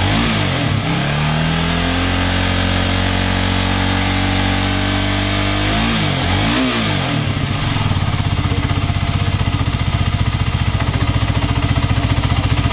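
Kawasaki KLX250ES single-cylinder four-stroke engine revved by hand on the throttle. It gives a couple of quick blips, is held at raised revs for about four seconds, blips twice more around six seconds in, then drops back to a steady idle with an even pulsing beat.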